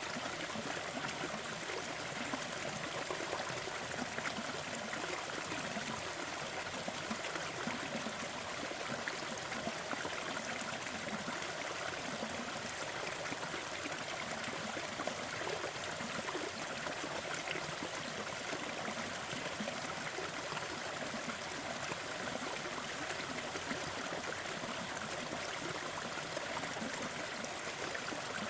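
Waterfall: water falling and splashing in a steady, even rush, mostly hiss with little deep rumble.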